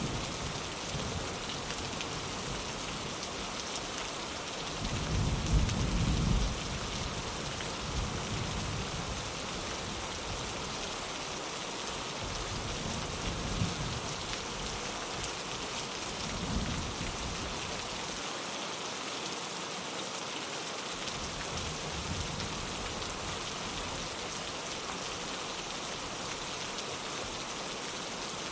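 Steady rain falling on a window pane, with low rolls of distant thunder swelling in and out; the loudest roll comes about five to six seconds in.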